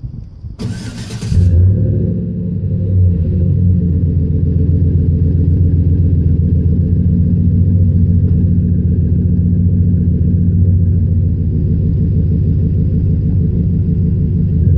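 2013 GMC Sierra pickup's engine exhaling through a Flowmaster Super 40 muffler: a brief burst of cranking about a second in as it starts, then it settles into a steady, deep, low idle.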